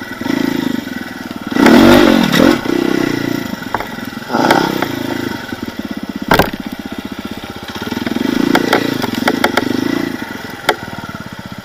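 Off-road vehicle engine revving in repeated surges while crawling over obstacles, with clattering and scraping and a sharp knock a little past the middle, another near the end.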